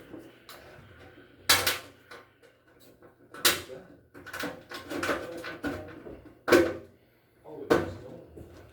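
Handling knocks and clatter: four sharp knocks spaced a second or more apart, with rustling and scraping between them.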